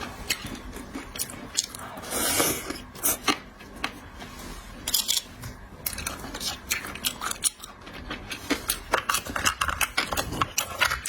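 Close-up eating of seafood: chewing and biting, with many sharp clicks and cracks and a short hissing burst about two seconds in.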